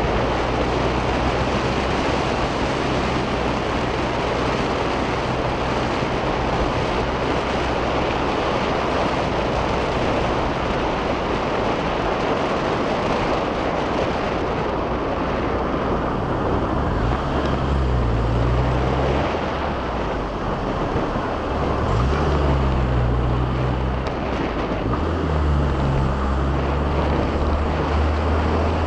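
Car engine pulling up a steep hill in a low gear, with steady wind and tyre noise; the engine note jumps and changes a few times in the second half.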